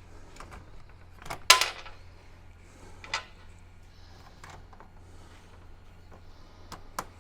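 A few sharp clicks and knocks of parts and tools being handled while a speaker guard is fitted, over a steady low hum. The loudest knock comes about one and a half seconds in and rings briefly, a second follows near three seconds in, and light clicks come near the end.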